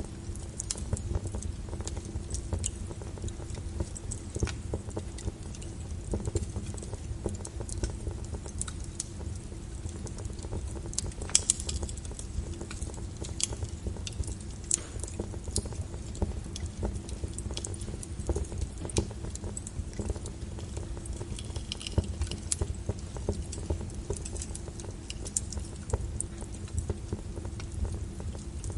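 Logs burning in a fireplace: a steady low rumble of flames with frequent sharp crackles and pops, the loudest pop about eleven seconds in.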